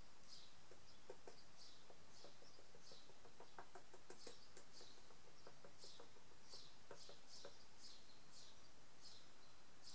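Faint bird chirping: short, high, falling chirps repeated about twice a second. A run of soft light clicks comes in the middle.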